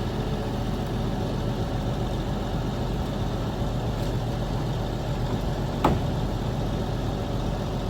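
Heavy truck engine running at a steady idle, a constant low hum, with one sharp metallic knock about six seconds in.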